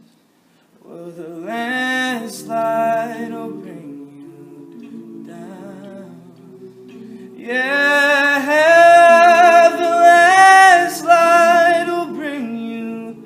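A male a cappella vocal group sings held harmony chords with no instruments. The chords swell twice, the second time louder and longer, then fade near the end.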